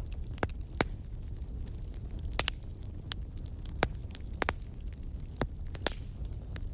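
Wood fire burning in a fireplace: about ten sharp, irregularly spaced crackles and pops over a steady low rumble.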